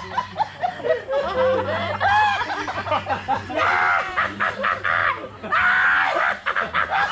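A person doing an exaggerated evil laugh for a laughing contest, with two loud, drawn-out cackles about halfway through and near the end, and others chuckling around it.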